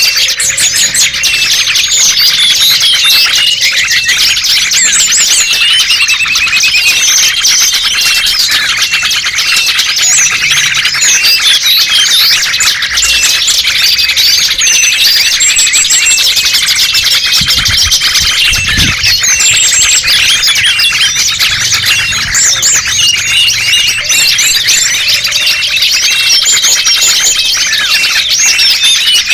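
A dense chorus of many small songbirds chirping, trilling and whistling over one another without a break: a bird-lure recording made to draw small wild birds in.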